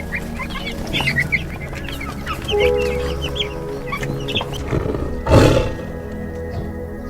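Short, high bird calls repeated over steady background music, with one loud, harsh noisy burst about five seconds in.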